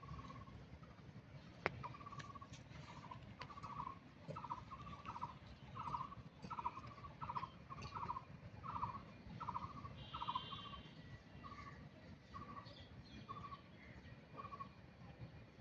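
A bird calling off camera: a long, evenly paced series of short, buzzy notes, about three every two seconds, swelling louder towards the middle and fading again. A single sharp click comes about two seconds in.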